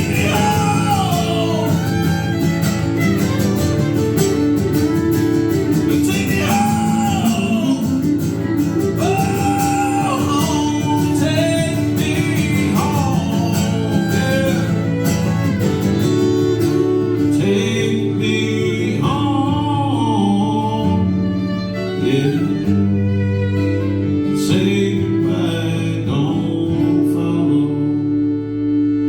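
Live country band playing a song with acoustic guitar and fiddle: a melody line glides over steady strummed chords, and the band settles onto a long held chord near the end.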